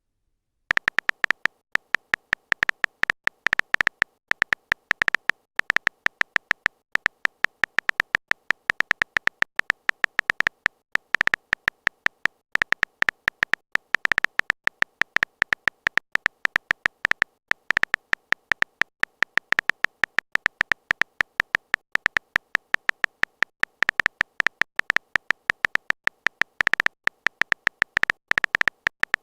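A fast, uneven run of short electronic blips, each with the same high tone, several a second: a text-typing sound effect for chat messages appearing letter by letter.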